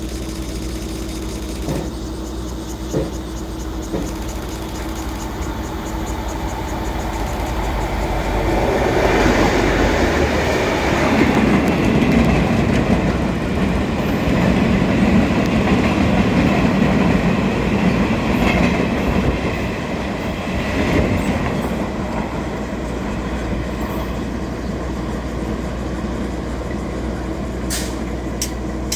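Freight train passing through a station: the wagons' wheels rumble and clack on the rails. The noise swells about eight seconds in, stays loud for over ten seconds, then fades as the train moves off.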